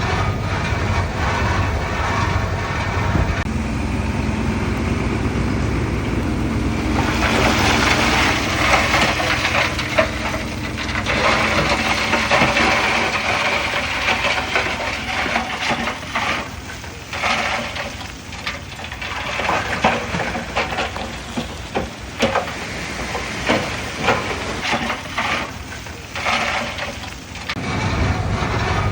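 Diesel engine of heavy earthmoving machinery running, with a rushing noise of moving soil for a few seconds about a quarter of the way in, then irregular cracks and clatter.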